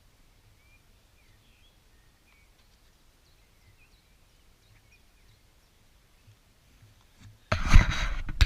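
Faint, scattered bird chirps over quiet outdoor background. Near the end a sudden loud rush of rumbling noise cuts in.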